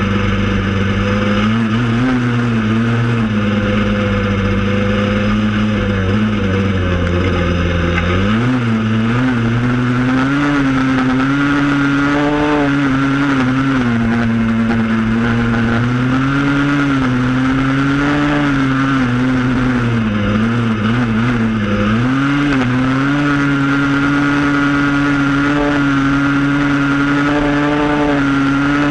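Yamaha Blaster ATV's two-stroke single-cylinder engine running under changing throttle, its pitch rising and falling, with a step up about eight seconds in and a dip and recovery near the two-thirds mark.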